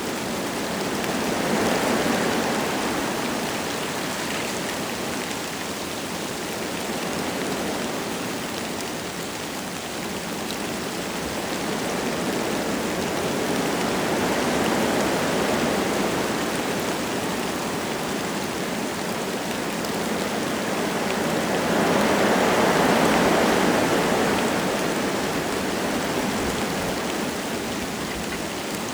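Wind gusting through forest trees with light rain falling, a steady rush that swells and eases in slow waves, with the strongest gust about two-thirds of the way through.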